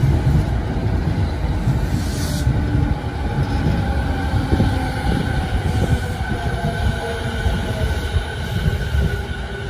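Electric commuter train running past close by on the adjacent track, its steel wheels rumbling on the rails, with faint steady whining tones above the rumble.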